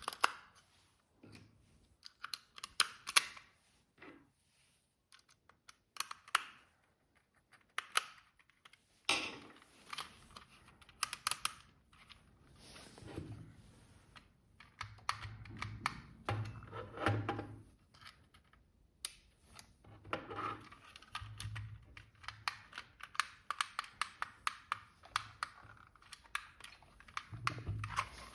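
Irregular clicks, taps and rustling from hands handling a plastic toy and its packaging, with a few soft thuds in the second half.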